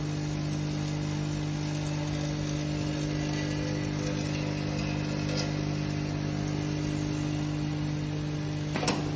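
Semi-automatic filling machine running with a steady electric hum, with one short sharp click near the end.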